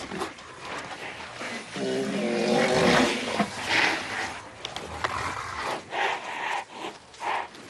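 Rhinos fighting. A drawn-out pitched animal call sounds from about two to three seconds in, among scuffling and scattered knocks.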